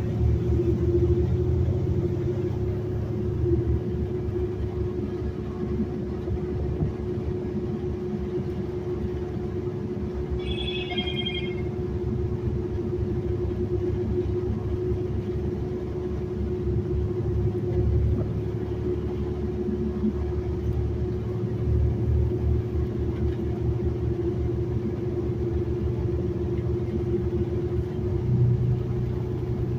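Metro city bus under way, heard from on board: steady engine and road rumble with a constant hum. About ten seconds in, a short electronic chime of a few high stepped tones sounds once.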